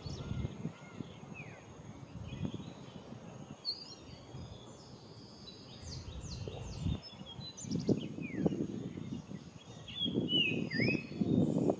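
Outdoor field ambience with scattered short, high bird chirps and calls, several sliding down in pitch. Under them is a low rumbling noise in gusts, which is strongest near the end, and a faint steady high tone.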